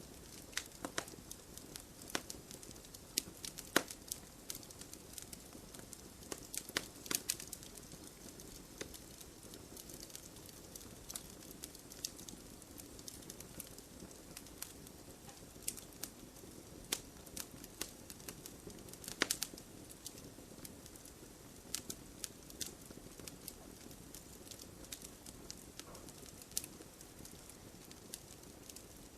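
Wood fire burning and crackling, with irregular sharp pops and snaps over a soft low hiss of flame; the loudest pops come about 4 and 19 seconds in.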